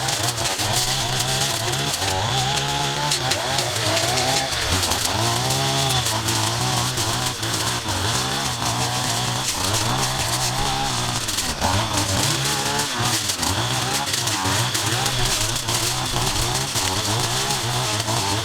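Small petrol engine of yard-clearing equipment revving up and down over and over, rising and falling in pitch every second or two, over a steady hiss.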